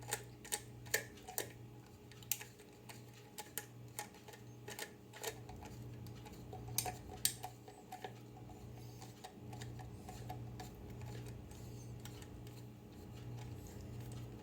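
Light metallic clicks and taps of a small piece and tools being handled while taking a part off a microwave magnetron, irregular and more frequent in the first half, over a steady low hum.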